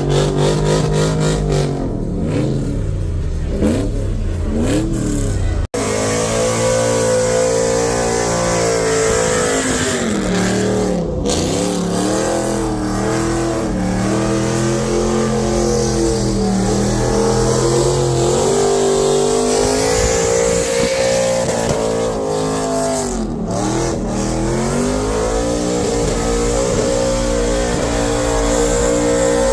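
Car engine revving hard, its pitch climbing and falling again and again, with a brief cut-out about six seconds in.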